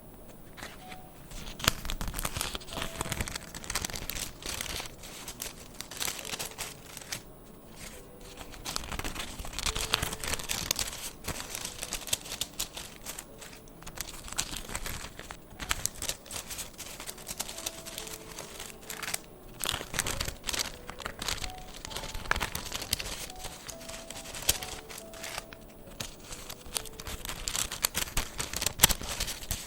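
Paper rustling and crinkling as sticker packs are handled and packed, with many irregular sharp crackles and light taps.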